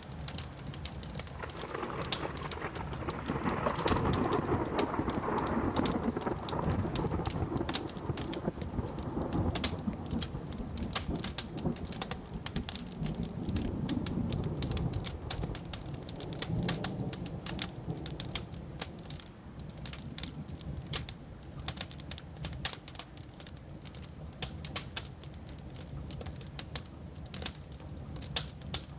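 Wood fire crackling with many sharp pops, under a long rolling thunder rumble. The thunder builds in the first few seconds and then fades away slowly.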